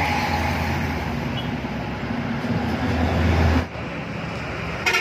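Heavy truck engine running with a steady low rumble that grows louder, then drops off abruptly near the end.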